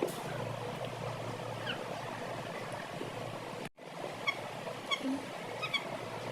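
Chicks cheeping a few short, high calls over a steady hiss, the calls coming more often in the second half; the sound drops out briefly just past halfway.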